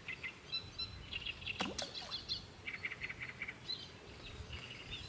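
Small songbirds chirping and trilling in quick runs of short high notes, with a single short falling swish about a second and a half in.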